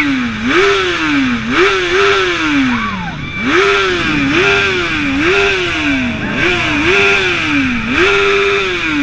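A motorcycle engine revved in quick repeated throttle blips, about one a second, each rev climbing in pitch and dropping back. Near the end one rev is held a little longer before falling away.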